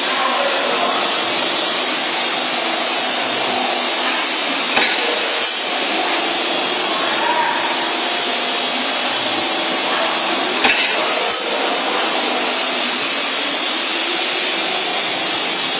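CNC wire bending machine running with a steady whirring hiss, with two sharp clicks, about five and eleven seconds in.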